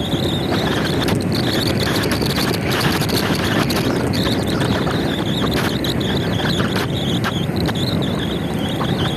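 Riding a motor scooter: steady road and wind noise over the engine, with a high, wavering insect chorus from the roadside.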